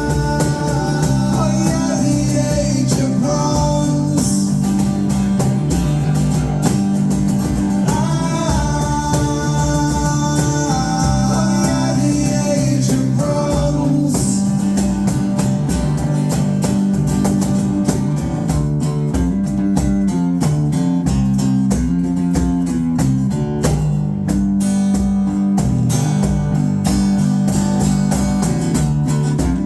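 A band playing a song live: sustained guitar chords over a steady drum beat, with a melody line bending over the top in the first half.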